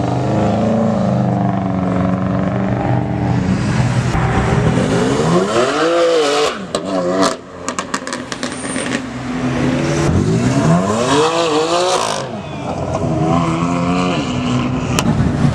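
A car engine revved hard, its pitch climbing twice and dropping off sharply each time, with a quick run of sharp pops and crackles from the exhaust as it comes off the throttle after the first climb.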